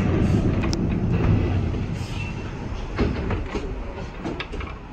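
NORTA 900 Series streetcar running, heard from inside the car: a low rumble of wheels on rail that fades over the second half as the car slows for a stop. A few light knocks come about three seconds in.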